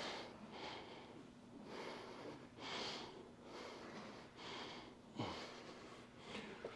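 A man breathing hard in quick, airy breaths through his nose and mouth, the effortful breathing of a weightlifting set. A single short knock comes about five seconds in.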